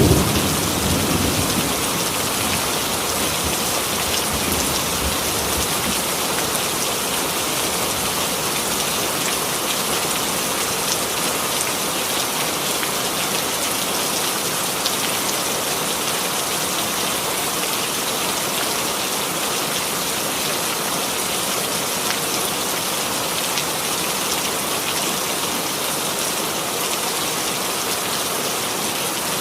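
Steady heavy rainfall: an even, unbroken hiss of rain on surfaces. A low thunder rumble dies away over the first few seconds.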